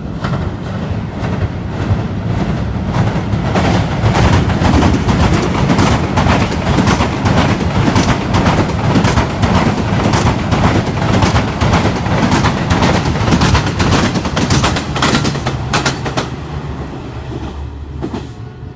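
Diesel-hauled passenger train crossing a steel girder bridge: a steady locomotive engine rumble under a rapid, continuous clatter of coach wheels on the bridge rails. It builds over the first few seconds and eases off near the end.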